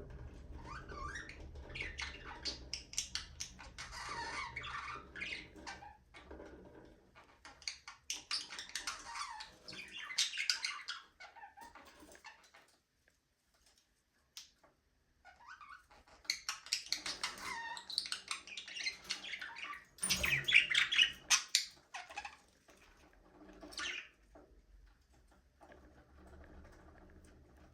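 Budgerigars chirping and warbling in quick chattering bursts, with a pause of a couple of seconds near the middle.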